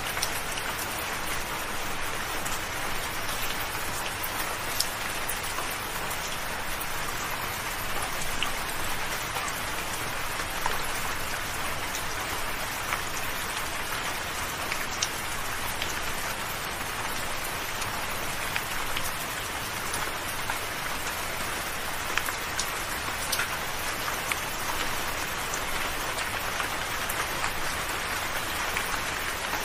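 Soft, steady rain: an even hiss of rainfall with many scattered single drops ticking close by.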